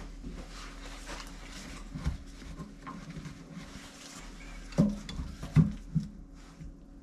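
Light knocks and clinks of metal tools and fittings being handled, a few sharper knocks about five to six seconds in, over a low steady hum.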